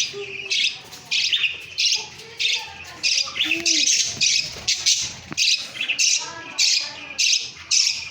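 A group of caged small parrots giving harsh, scratchy squawking calls, about two a second, with softer chirps in between.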